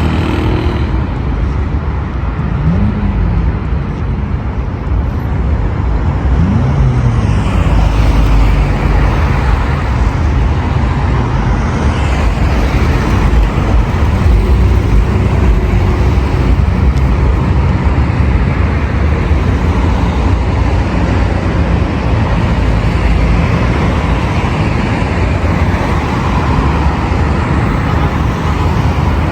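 Heavy road traffic on a busy boulevard: a steady rumble of cars passing close by, with a couple of engines rising and falling in pitch in the first few seconds as vehicles speed up and go past.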